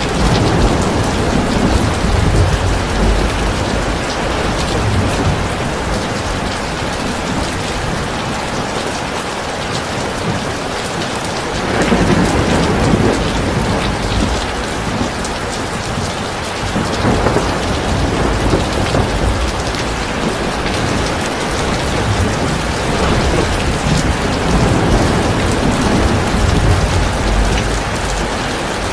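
Heavy rain pouring steadily, with low rumbles of thunder swelling and fading several times.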